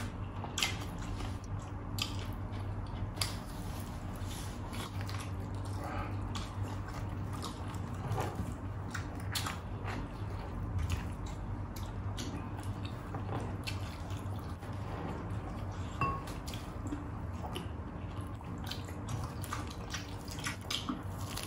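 Close-up eating sounds of two people eating rice and saucy chicken adobo by hand: irregular wet chewing, lip smacks and mouth clicks. A steady low hum sits underneath.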